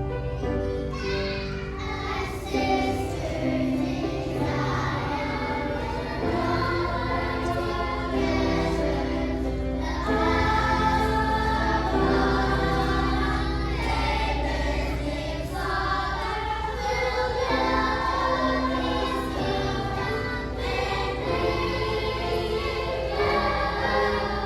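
A choir of children singing a song with musical accompaniment.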